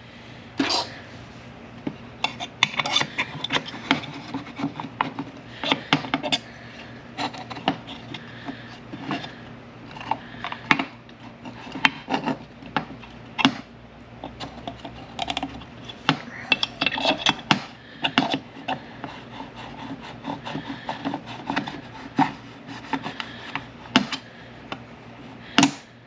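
Hand work on the metal parts of a manual transmission shift tower: irregular clicks, knocks and scraping as the shift fork and shift rail are fitted and slid into place.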